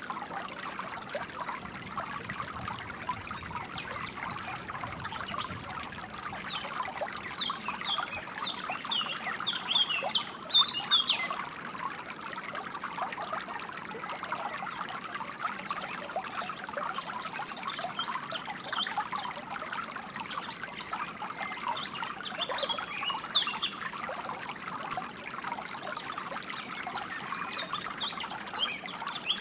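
A small stream trickling and splashing steadily, with songbirds chirping over it in short rapid bursts, busiest about ten seconds in and again through the second half.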